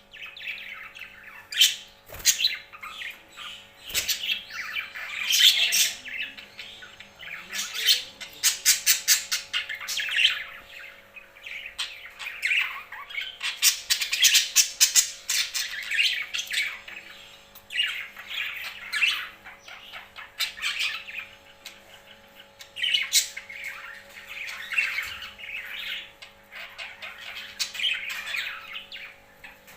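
Pet birds chirping and squawking in bursts, some calls coming in quick rapid-fire runs, with short pauses between bursts.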